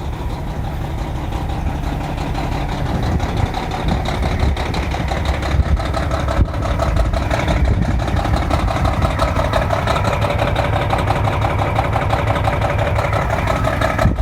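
Detroit Diesel Series 60 engine idling cold just after a freezing start without glow plugs or intake heaters. The idle is steady and grows gradually louder over the first few seconds.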